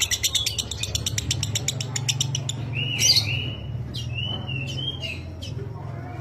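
Lovebird chattering in a fast, rapid-fire run of high clicking notes for the first couple of seconds, then several short whistled notes with quick pitch bends, over a steady low hum.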